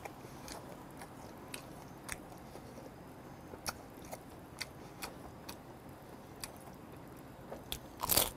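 A person chewing and eating crab meat: scattered wet mouth clicks and smacks about every half second, with a louder cluster of smacks near the end.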